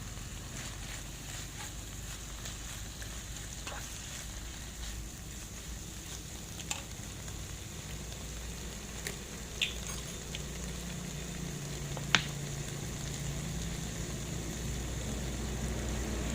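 Shredded chicken and carrot filling sizzling in olive oil in a pan as it is stir-fried, a steady hiss broken by a few sharp clicks, the loudest about twelve seconds in.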